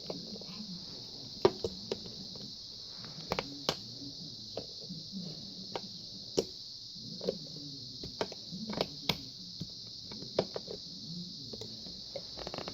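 Irregular clicks and knocks of hard plastic being handled, as plastic feet are fitted onto a box fan, over a steady high hiss.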